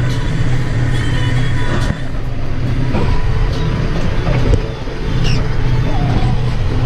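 Tractor engine running steadily while driving a snowblower, heard from inside the cab, with a few clicks and rattles.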